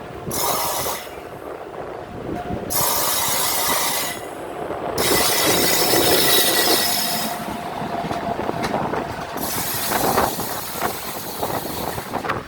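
Suburban electric local trains running side by side on parallel tracks, wheels rolling on the rails. The noise surges in rushing waves four times, with a thin steady whine underneath.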